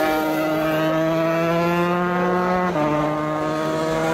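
125cc race motorcycle engine held at high revs, its pitch creeping slowly upward, then dropping sharply about three seconds in as the rider shifts up a gear and keeps pulling.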